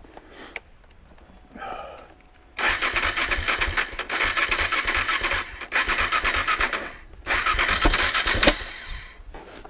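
KTM 690 Enduro R's single-cylinder engine being cranked on the starter in three bursts of a few seconds each, with short pauses between.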